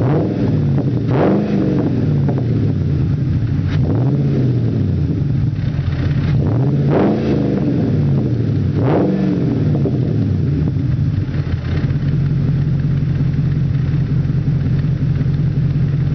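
FPV FG GS's supercharged 5.0-litre V8 through a custom twin exhaust, blipped up and back down about five times in the first ten seconds, then idling steadily.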